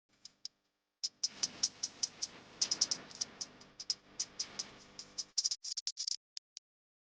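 A quick, irregular run of sharp clicks, several a second, for about five seconds, stopping a little before the end.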